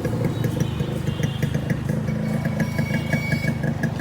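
Yamaha RX100's two-stroke single-cylinder engine idling steadily, with a rapid, even exhaust beat.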